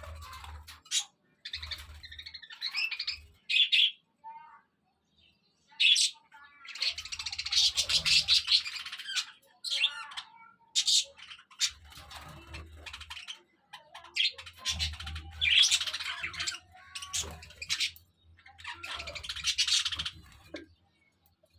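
Budgerigars chirping and chattering: dense warbling bouts of a second or two, with short sharp chirps between them.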